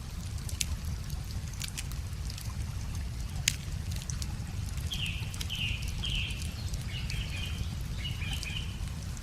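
Wood fire crackling with scattered sharp pops, the loudest about three and a half seconds in, over a steady low rush of running water. About five seconds in a bird sings three short falling notes, then two brief trilled phrases.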